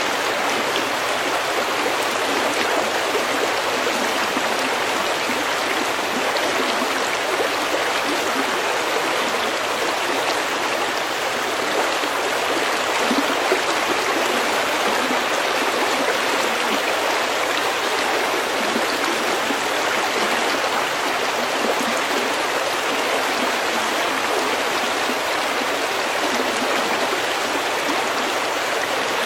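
A small stream flowing steadily over pebbles, a continuous even babbling of water.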